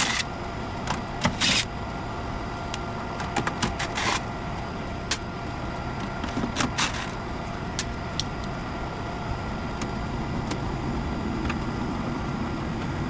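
Furnace running with a steady hum, its burner lit, while the front cover panel is taken off: a series of clicks, knocks and light metal clatter over the first eight seconds or so, then just the steady running.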